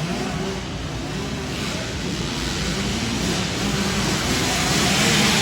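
Several 65cc two-stroke youth dirt bikes racing, their engines revving up and down, growing louder toward the end.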